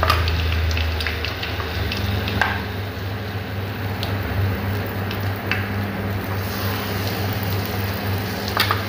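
Batter-coated tempeh (mendoan) sizzling steadily as it deep-fries in hot oil in a wok, with a few light clicks.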